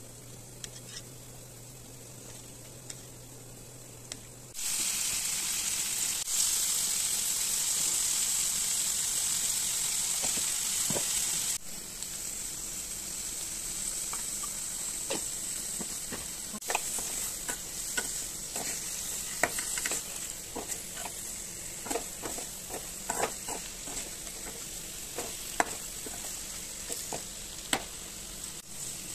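Mushrooms and onion frying in oil in a steel kadai. A loud sizzle starts suddenly about four seconds in and drops back after about seven seconds to a steadier sizzle, with the clicks and scrapes of a steel spoon stirring against the pan.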